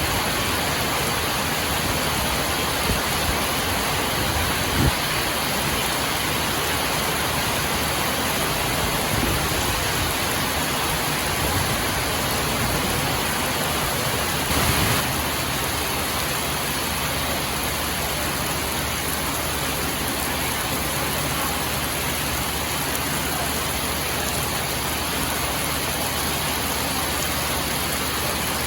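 Steady heavy rain, an even unbroken hiss of rainfall with a couple of faint knocks.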